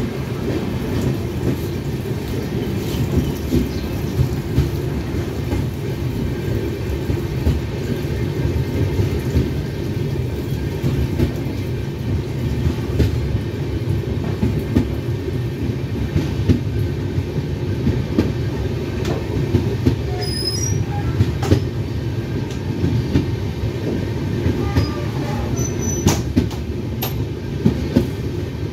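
Passenger train running along the rails, heard from inside the coach: a steady low rumble of wheels on track with frequent clicks over rail joints. A few brief high squeaks come in about two-thirds of the way through and again near the end.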